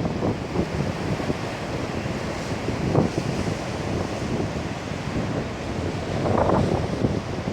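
Heavy typhoon surf breaking on a beach, with strong wind buffeting the microphone. The surf swells louder near the end.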